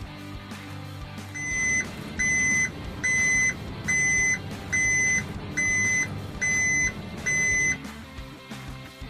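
Electronic beeper sounding eight even, high beeps, a little over one a second, over cartoon background music.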